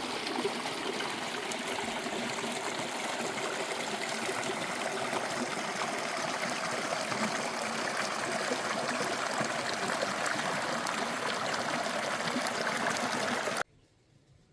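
Running water flowing steadily, like a stream; it cuts off suddenly near the end.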